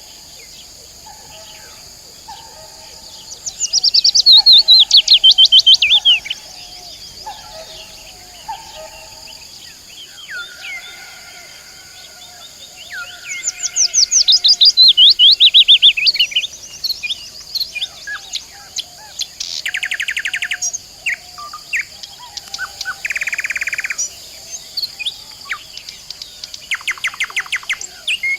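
Several songbirds singing. Twice a loud song of rapid notes runs downward in pitch, quieter chirping goes on underneath, and in the second half come shorter buzzy trills.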